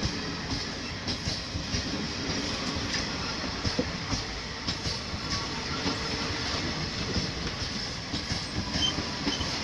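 Express passenger train rolling past, its wheels clattering irregularly over the rail joints over a steady rumble.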